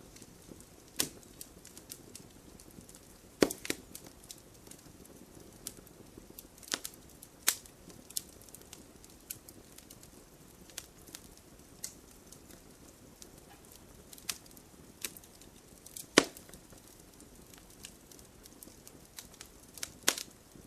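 Wood fire crackling: irregular sharp snaps and pops over a soft, steady hiss, with a few much louder pops scattered through.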